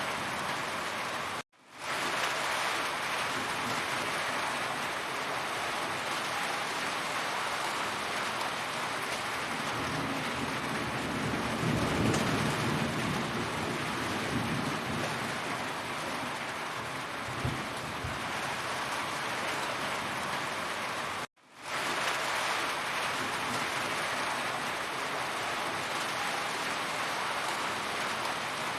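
Heavy rain falling steadily in a dense, even hiss, with a low rumble swelling near the middle. The sound cuts out abruptly twice, about a second and a half in and again about two-thirds of the way through, then fades straight back in.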